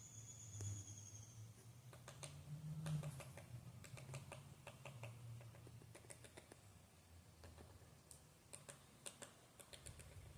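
Quiet natural ambience: faint, irregular clicks and ticks over a low steady rumble, with one thin high whistle that falls slightly in pitch during the first second and a half.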